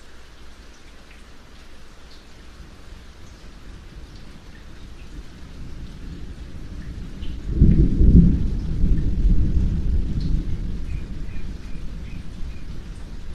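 Steady rain with scattered drips, then a thunderclap about halfway through that rumbles low for several seconds before easing off.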